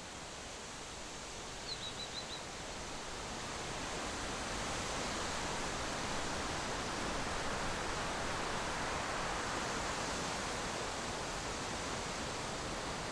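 Steady rushing noise that grows louder over the first few seconds and then holds, with a quick run of four or five high bird chirps about two seconds in.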